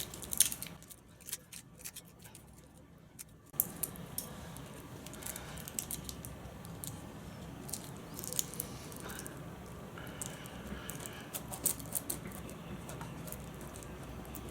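Faint crinkling and scattered small clicks of hands handling a bicycle-style tube puncture patch, peeling off its backing. A low steady background hum comes in a few seconds in.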